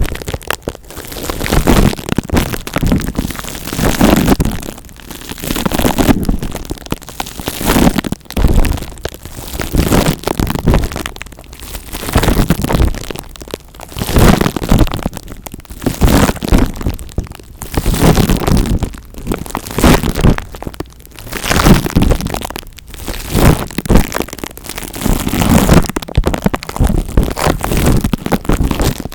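Close-miked ASMR scratching and crackling, rubbed against the microphone in slow waves that swell and fade about every two seconds.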